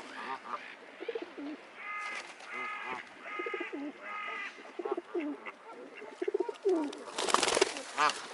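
Feral pigeons cooing repeatedly, mixed with other birds' calls: a run of four short, evenly spaced calls in the middle, and a louder harsh burst near the end.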